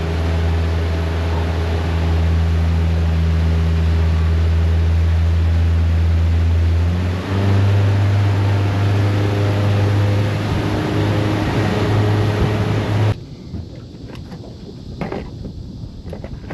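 Boat's outboard motor running steadily, its note shifting about halfway through, then shut off suddenly about 13 seconds in, leaving a few faint knocks on the hull.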